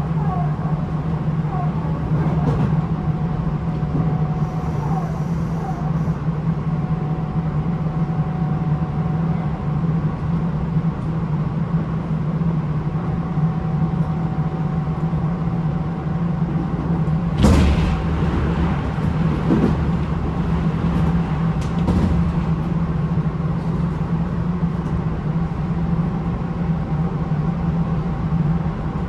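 Running sound inside the motor car of a Tobu 9050 series electric train with GTO-VVVF control, cruising at speed: a steady low rumble with a faint steady whine, and sharp knocks from the wheels about two-thirds of the way through.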